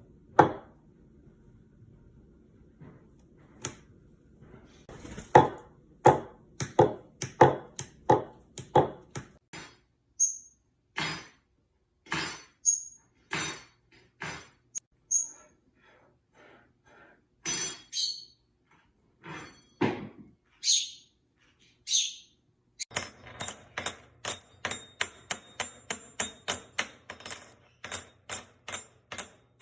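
A string of irregular taps and knocks with a few short, high bird chirps, then a quick, even run of taps near the end.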